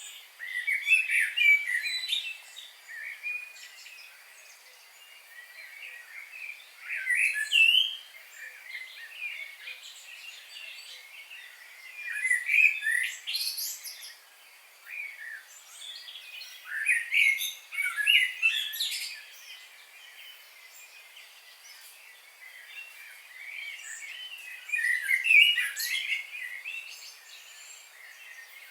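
Songbirds singing outdoors: short warbling song phrases come about every five or six seconds over softer background chirps.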